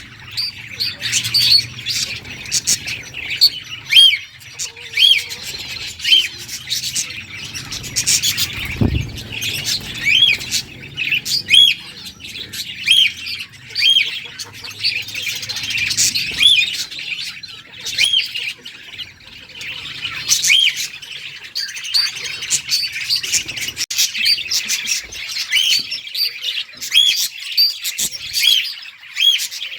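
Budgerigars chattering and chirping nonstop, a run of short arching whistles and squawks with sharp clicky notes, and a single low thump about nine seconds in.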